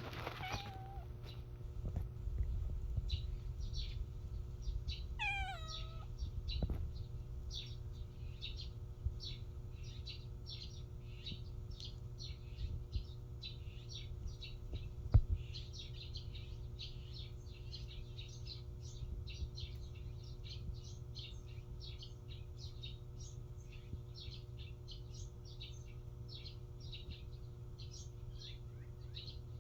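A cat meows once, with the pitch falling, about five seconds in. A run of short, high chirps, several a second, goes on around it. A sharp knock comes about halfway through, over a steady low hum.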